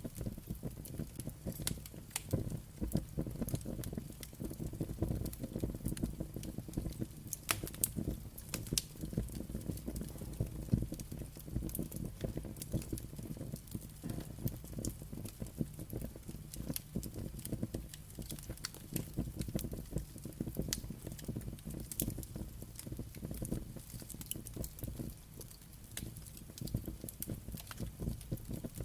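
Wood fire crackling, with frequent irregular sharp pops and snaps over a low steady rumble of burning.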